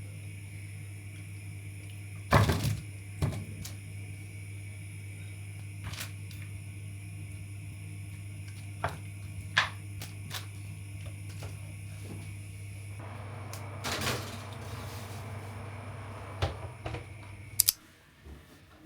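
Oven door and metal baking tray knocking and clunking as the dish goes into a hot oven, over a steady electric hum. The loudest clunk comes about two seconds in, with scattered clicks after; near the end a short high beep sounds and the hum cuts off.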